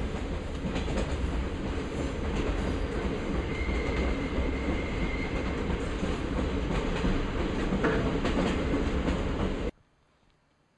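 Train on the Chihuahua–Pacific line rolling along with RVs on its flatcars: a steady rumble with the click of the wheels over the rail joints, and a faint wheel squeal a few seconds in. It cuts off suddenly near the end.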